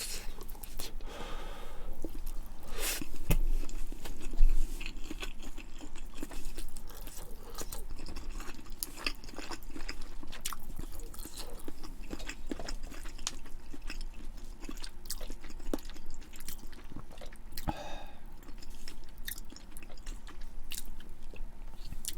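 A person chewing food close to the microphone, with many small crunchy, wet clicks and occasional sharper bites.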